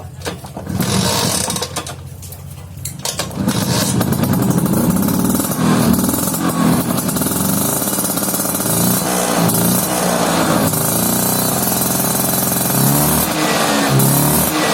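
Vespa PTS two-stroke scooter engine with an aftermarket exhaust: a brief burst about a second in, then from about three and a half seconds it runs steadily and is revved up and down several times.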